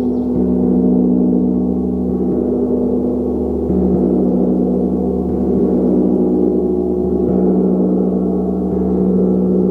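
A gong sounding continuously, a dense sustained wash of many overlapping low tones that swells slightly about four and seven seconds in.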